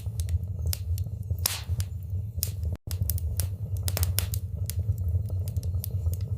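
Wood fire burning in a fireplace: a steady low rumble of flames with frequent sharp crackles and pops. The sound drops out for an instant a little under three seconds in.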